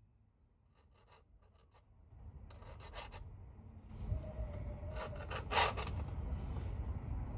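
Drill with a cobalt bit grinding against hardened steel without cutting through, a scraping, rubbing sound with clicks that starts about two seconds in and grows louder about four seconds in.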